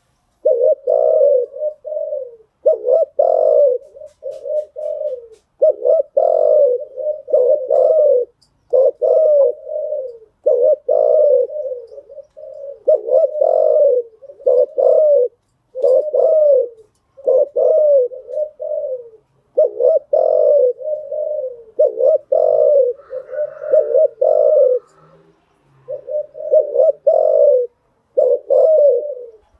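Spotted dove cooing over and over, one low cooing phrase after another with short pauses between them.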